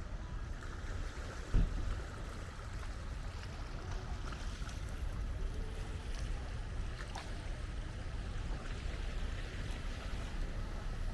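Steady low outdoor rumble with a single thump about a second and a half in.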